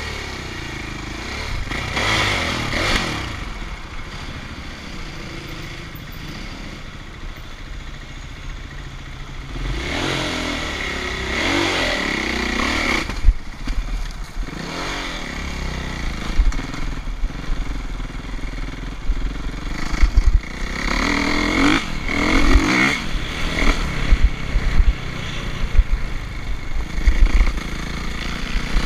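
Motocross dirt bike engines running, with three louder stretches of revving about eight to ten seconds apart, the engine pitch rising and falling each time.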